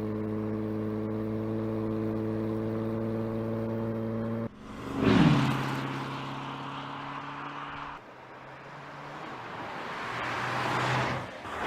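Porsche Panamera Turbo's twin-turbo V8 running at a steady, slowly rising pitch, then the car passing by loudly about five seconds in, its note falling as it goes. The sound of the car approaching again builds up toward the end.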